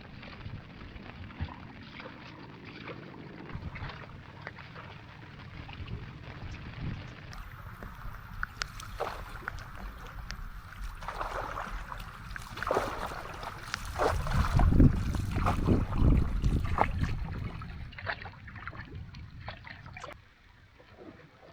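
Water splashing and lapping with many scattered knocks, and a louder low rumble of wind on the microphone from about two-thirds of the way through, fading near the end.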